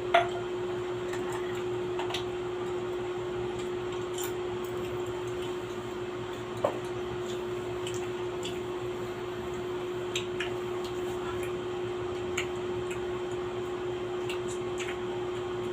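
Light, scattered clinks of dishes and utensils during a meal, a few short clicks spread over the stretch, above a steady hum.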